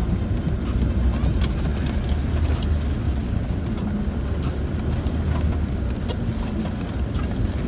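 Land Rover Discovery 4 heard from inside the cabin while driving over a rough track: a steady low engine and tyre rumble with scattered light clicks and knocks.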